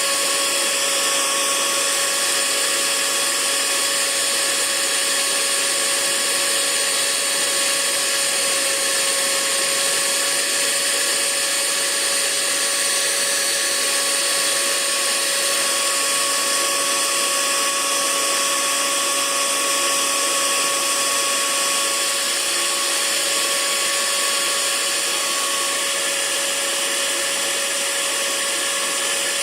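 Hair dryer running steadily: an even rush of air with a constant motor hum and whine, unchanging throughout.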